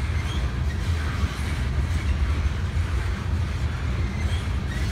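Tank cars of a BNSF oil train rolling past, a steady low rumble of steel wheels on rail.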